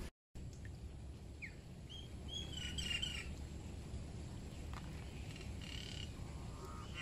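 Birds chirping in short bursts of high calls, about two to three seconds in and again near six seconds, over a steady low background noise.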